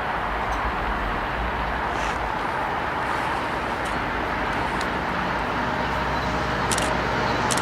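An approaching diesel freight train heard as a steady rumble and hiss, with a few sharp clicks starting near the end.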